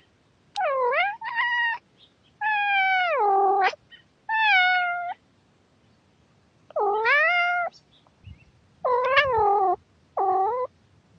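Domestic cat meowing repeatedly: seven separate meows, several long ones falling in pitch, with a pause of about a second and a half midway.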